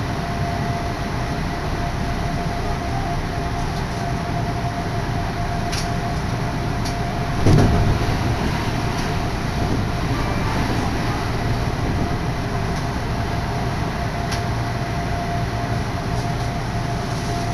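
Odakyu Odawara Line commuter train running at speed, heard inside the car: a steady rumble with a faint constant tone. About seven and a half seconds in, a train passing on the next track brings a sudden loud surge of noise lasting about half a second, and the rumble stays fuller after it.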